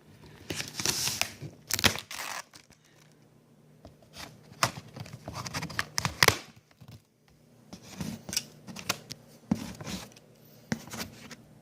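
Cardboard shipping box being torn open by hand: packing tape and cardboard ripping in irregular bursts, with crinkling and sharp crackles between them.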